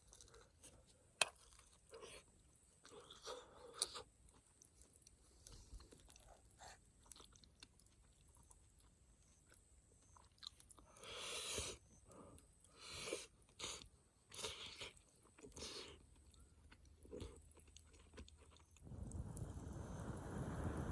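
A person chewing and crunching food close to the microphone, in short bursts with small clicks and bites. Near the end a steady low rushing noise starts.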